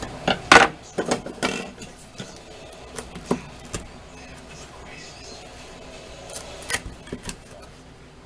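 Cutlery and dishes clicking and knocking in a series of sharp taps, several in the first second and a half and another cluster about six to seven seconds in.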